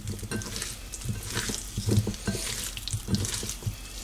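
Chicken pieces being stirred through a wet masala marinade in a bowl: soft, irregular squelching and scraping strokes, about two a second, over a light hiss.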